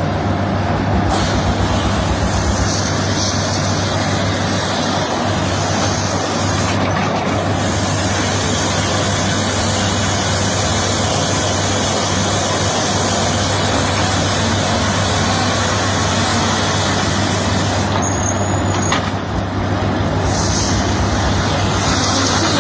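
Tractor engine running steadily while a hay baler works, a continuous low mechanical drone with no pauses.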